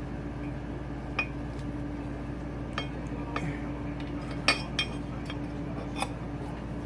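Handling of metal engine parts and tools: about half a dozen light metallic clicks and clinks at irregular intervals, over a steady hum.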